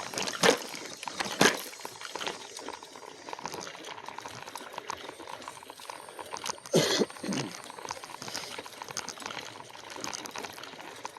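Loaded e-bike rolling over a rooty dirt trail: steady rustling tyre and rattle noise with a few sharp knocks as it jolts over roots, the loudest about seven seconds in.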